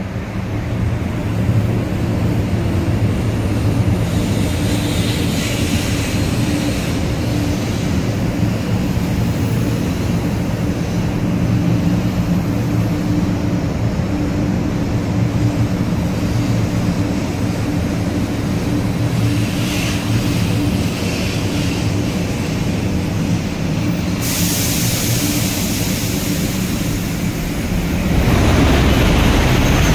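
500 series Shinkansen pulling into the platform and slowing, its motors and onboard equipment giving a steady low hum. Near the end a high hiss starts, and in the last seconds wind rumbles on the microphone.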